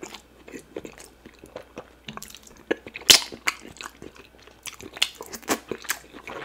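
Close-miked chewing of a mouthful of fufu with cocoyam soup: wet mouth clicks and smacks at irregular intervals, with one louder smack about three seconds in.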